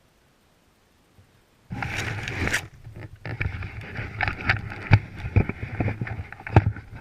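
Close rustling and scraping with irregular knocks, starting abruptly after a second or so of silence. It is loud and uneven, with the loudest knocks near the middle and near the end.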